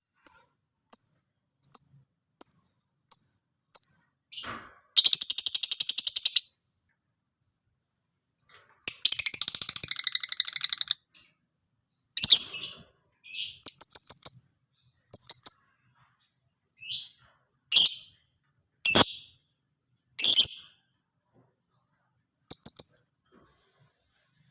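Lovebird calling. It opens with a run of short, sharp, high chirps about one and a half a second, then gives two long buzzing trills of a second or two each, then scattered single chirps and short chirp clusters.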